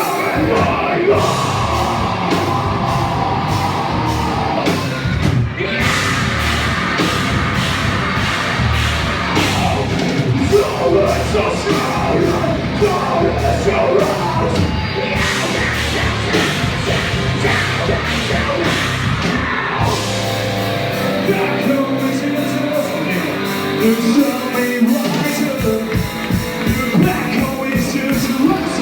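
Live heavy rock band playing a loud, distorted song with shouted vocals and pounding drums, getting denser about twenty seconds in.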